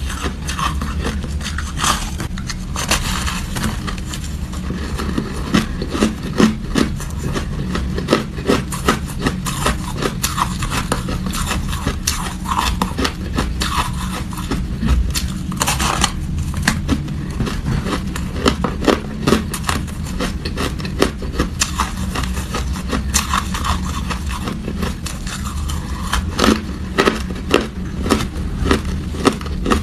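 Close-miked crunching and chewing of hard ice: many sharp, irregular crunches, denser in some stretches, over a steady low hum.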